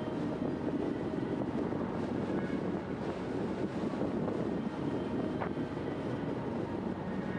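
Steady riding noise from an Emmo Zone GTS electric bike at speed: wind buffeting the microphone over the hum of tyres and drivetrain on the road.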